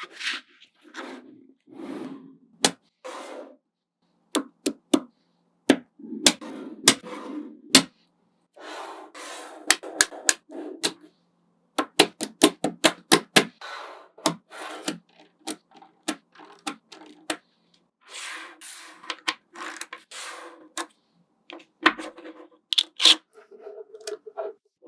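Small neodymium magnet balls snapping together with sharp clicks, some single and some in quick runs of several, with softer rustling stretches of balls rolling and shifting against each other in between.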